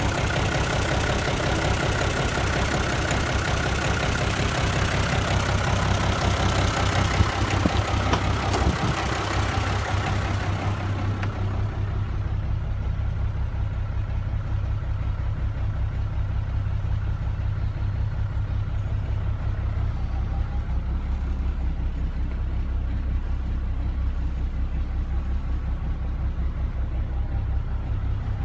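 Isuzu turbo diesel engine of a 1993 GMC W5500 truck running steadily with a low drone. About eleven seconds in, the higher hiss over it drops away, leaving the low engine hum.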